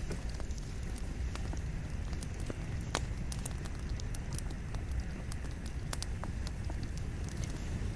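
Wood campfire burning with a steady low rumble and frequent sharp crackles and pops of the burning logs, one louder pop about three seconds in.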